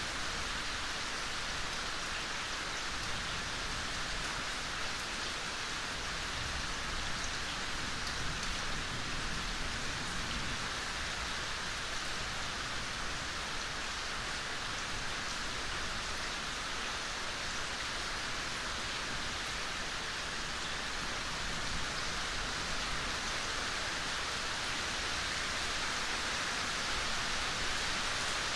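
Steady gentle rain falling in a forest, an even hiss of drops with faint patter and no change in strength.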